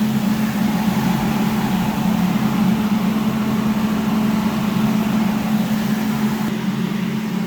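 Electric exhaust fan running with a steady hum.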